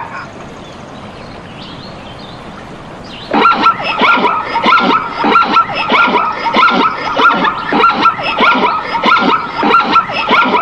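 A faint hiss for about three seconds, then a dog yipping in quick short yips, several a second.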